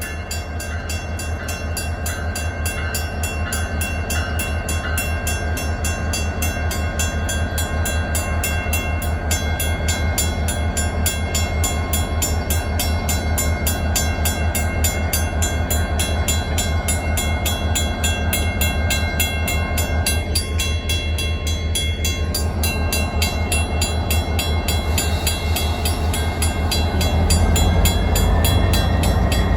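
A WCH first-generation mechanical crossing bell rings with rapid, even strikes, over the deep rumble of BNSF diesel locomotives. The rumble slowly grows louder as the train approaches the crossing.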